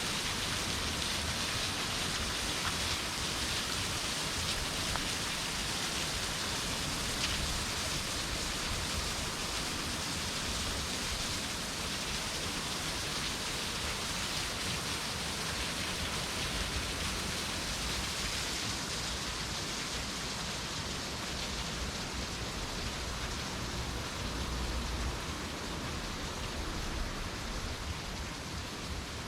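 Steady, even rushing of water, with no breaks or single events; the hiss thins slightly near the end.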